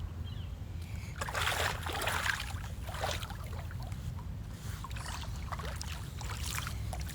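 Stand-up paddleboard paddle strokes in water: a splashing swell about a second in, another shortly after, then smaller splashes and drips, over a low steady rumble.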